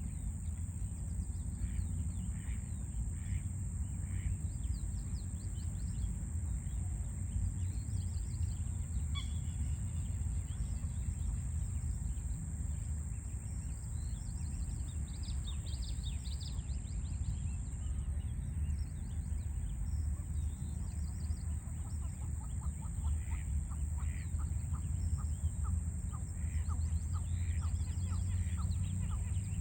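Small birds chirping and calling in short scattered bursts over a steady low rumble of distant city traffic, with a constant high-pitched hiss throughout. In the last third a bird repeats a quick series of lower, evenly spaced notes.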